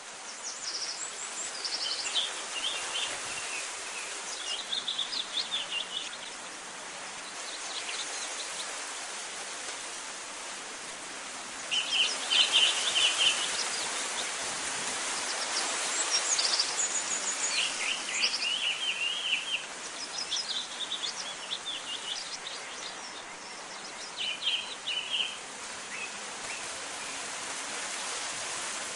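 Small birds chirping in short high phrases every few seconds, loudest about twelve seconds in, over a steady outdoor rushing hiss.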